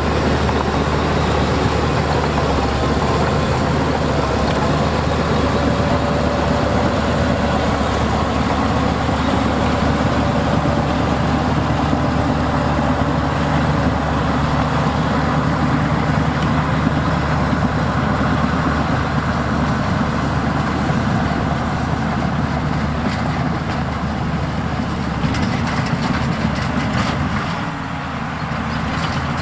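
Heavy diesel earthmoving machinery running steadily under load, a continuous engine drone with a faint wavering whine over it in the first third. The sound drops back briefly near the end.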